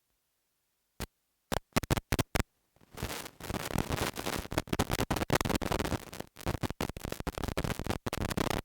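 Microphone line of a sound system dropping out, then a few sharp clicks, then from about three seconds in a dense, irregular crackle and scratching noise.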